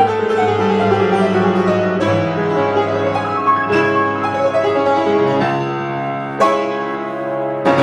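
Piano playing held chords, with new chords struck every second or two; one is sharper and louder, about six and a half seconds in.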